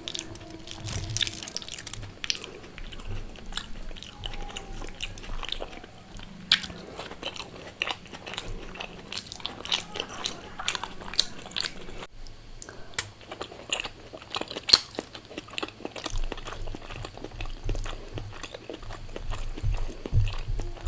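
Close-miked chewing and crunching as a person eats crisp fried food with rice, with many sharp crunches throughout.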